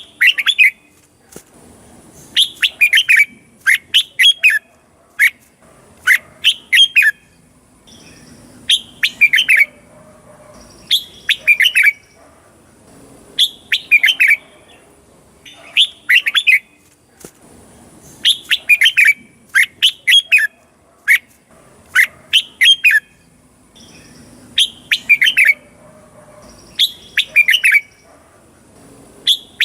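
Red-whiskered bulbul singing: short, loud, quick warbled phrases repeated about every two seconds, in the style used to excite or teach caged bulbuls.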